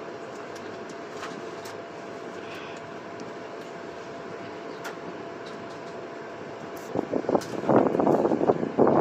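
Steady running noise of a moving passenger train heard from inside the carriage, with a faint constant whine. About seven seconds in, loud irregular rustling on the microphone takes over.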